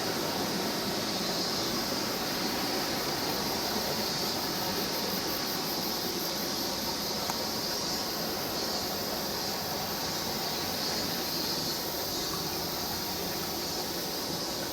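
Steady rushing of a mountain stream, an even wash of water noise with a steady high hiss or buzz on top.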